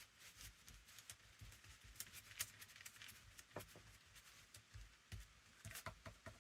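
Faint, scattered light taps and rustles of paper being handled and Mod Podge being brushed onto a paper journal cover.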